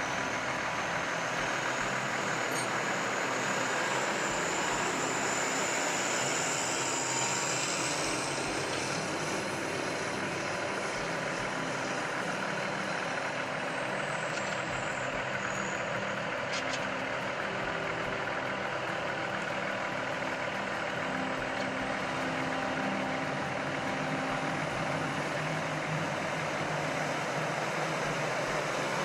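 Diesel engine of a New Holland 9680 tractor running steadily, with a high whine that rises and fades about eight seconds in.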